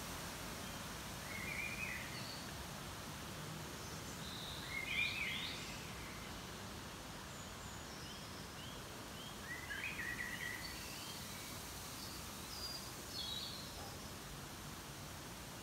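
Birds chirping and calling on and off, short scattered calls with the loudest about five seconds in, over a steady background hum of ambient noise.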